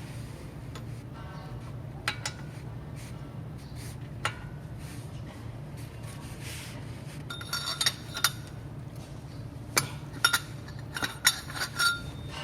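Steel hand tools clinking against a brake caliper bolt: a few single taps, then a run of ringing metallic clinks in the last few seconds as a 21 mm socket and wrench work the tight bolt loose.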